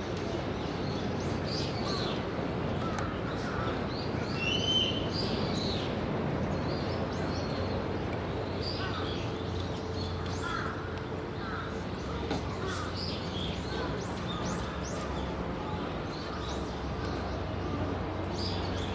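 Outdoor ambience: birds calling on and off in short, scattered calls over a steady low hum.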